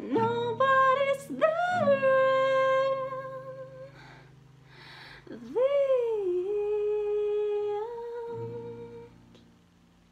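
A solo singing voice holds two long notes, hummed or sung wordlessly, each sliding up in pitch at the start and taken after an audible breath. A steady low accompaniment chord sustains underneath. The song ends, fading out near the end.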